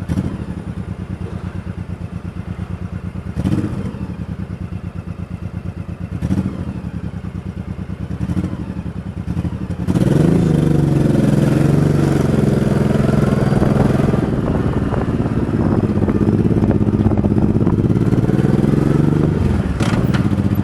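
Motorcycle engine idling with a steady beat, with a few short knocks. About halfway through it revs up and pulls away, then runs louder and steadier under load, dipping briefly near the end.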